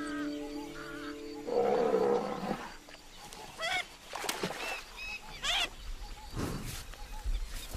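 Background music with held tones gives way, about a second and a half in, to wild animal calls: a loud rough call, then several short high-pitched calls and a lower call near the end.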